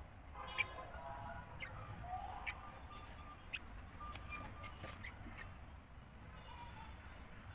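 Small pet cage birds chirping and calling in short, repeated notes, with a sharp click about half a second in.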